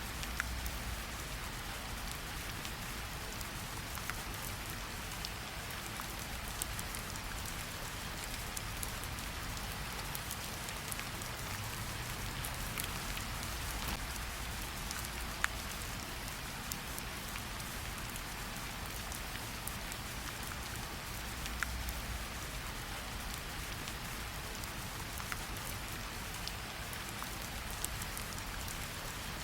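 Steady rain falling, an even hiss with scattered sharp drop ticks. A low rumble underneath swells briefly a few times.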